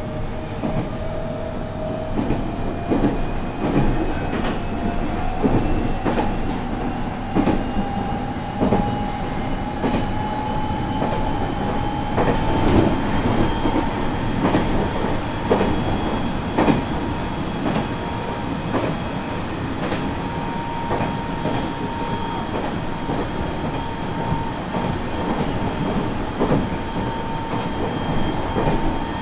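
Onboard running sound of a Nagoya Municipal Subway 3050 series electric train. The inverter and traction motor whine rises in pitch for about the first fifteen seconds as the train gathers speed, then holds a steady tone. Wheels click over rail joints about once a second.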